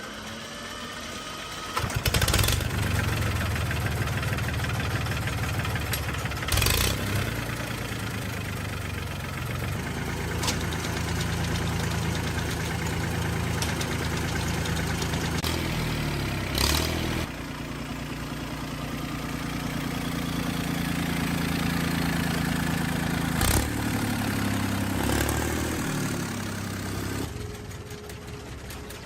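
Hitachi mini excavator's engine running. It picks up about two seconds in, and its note shifts up and down several times, with a few sharp clunks.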